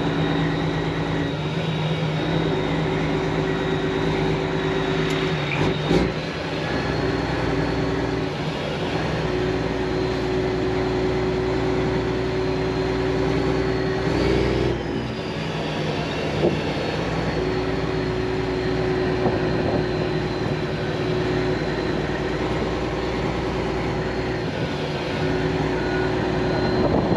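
Semi-truck's diesel engine running steadily with road noise, heard from inside the cab while driving slowly, with a faint high whine. A single knock sounds about six seconds in.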